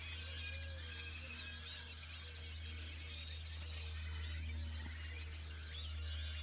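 Many small birds chirping irregularly over a steady low hum.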